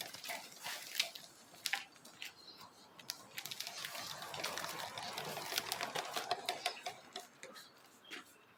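Honda NC750 drive chain and sprockets clicking and rattling irregularly as the motorcycle is rolled forward and back by hand, with a rising and falling rolling rustle in the middle. It is the noise of a chain set at about 41,000 km.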